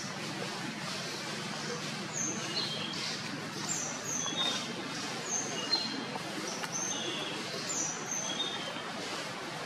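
Birds chirping: short high calls, often in pairs, recurring every second or so over a steady outdoor background hiss.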